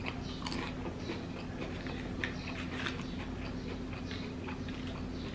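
Close-up chewing of rice with crunchy fried ampalam crackers: small, irregular crunches and mouth clicks. A steady low hum runs underneath.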